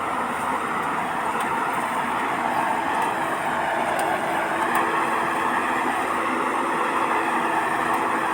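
Combine harvester running steadily at working speed: engine and threshing machinery giving a constant mechanical drone with a steady hum underneath.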